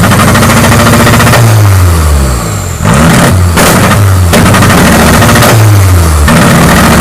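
Volkswagen Mk1 Golf engine being revved in a series of blips, the pitch climbing and then falling back each time; loud.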